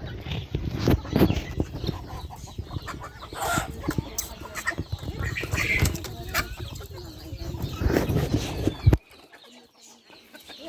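Pigeons fluttering and flapping their wings in a loft, with bird calls mixed in; the sound falls away abruptly about nine seconds in.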